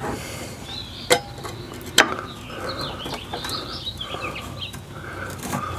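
Sharp metal clicks, two of them about a second apart, and light scraping as the burner assembly of a Suburban RV furnace is worked loose from its sheet-metal housing and stuck gasket.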